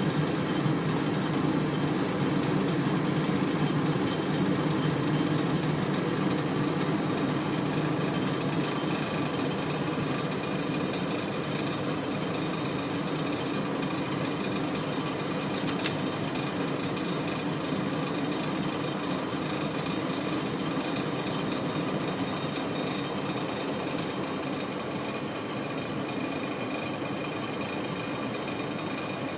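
Gas valve on a Carrier furnace making a continuous, rough buzzing rattle that slowly eases off a little in loudness.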